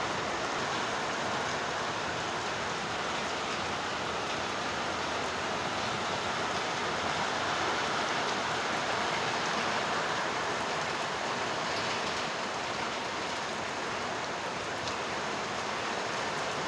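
Heavy rain pouring down, a steady, even hiss that holds at the same level throughout.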